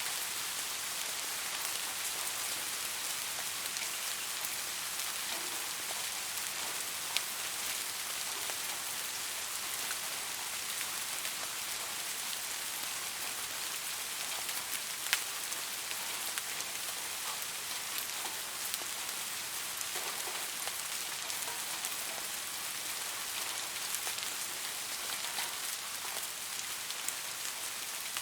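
Steady rainfall: an even hiss of rain with scattered individual drops tapping, two of them sharper about a third and half of the way through.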